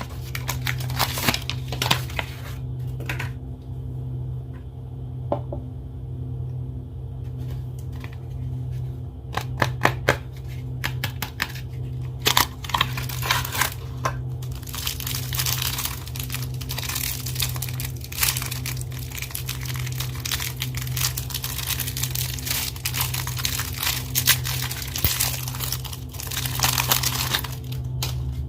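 Soap bar wrappers being crinkled and torn open by hand, a dense run of crackling and tearing with a quieter pause about four seconds in. A steady low hum runs underneath.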